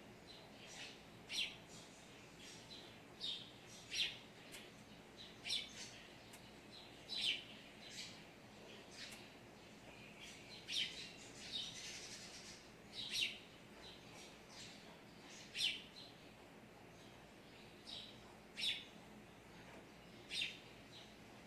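Birds chirping: short, high chirps repeating about every second or so, some louder than others, over a faint steady background.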